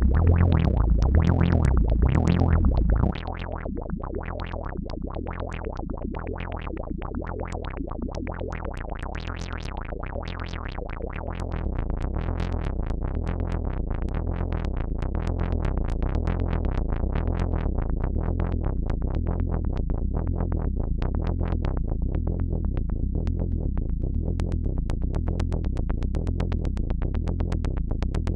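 AnalogFX SER-2020 analog synthesizer being played, a fast stream of repeating pulses over a low, alternating bass pattern. It drops in level about three seconds in and comes back up a little before the middle.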